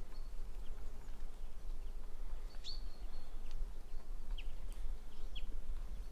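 Small birds giving a few short, high chirps, with a clear one a little before the middle and two short falling notes near the end, over a steady low rumble.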